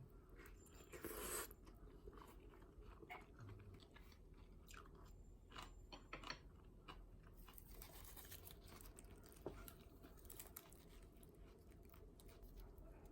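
Faint sounds of someone eating: chewing, with scattered small clicks and scrapes.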